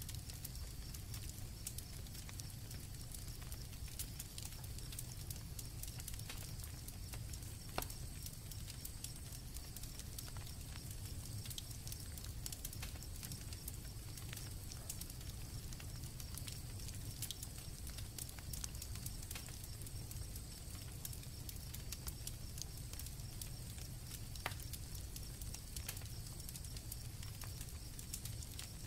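Campfire crackling and popping over a low rumble, with crickets trilling steadily in the background; two louder pops stand out, about 8 seconds in and near the end.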